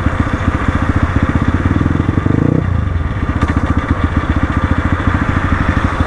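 Crossfire RM250 dirt bike's single-cylinder engine running at low revs, with a quick throttle blip a little past two seconds in before it settles back.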